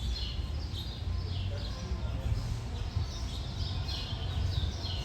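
Small birds chirping: a series of short, high, falling chirps repeating every half second or so, over a steady low rumble.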